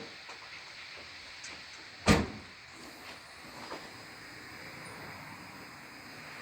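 A single loud thud about two seconds in, over a steady background hum, with a couple of fainter clicks.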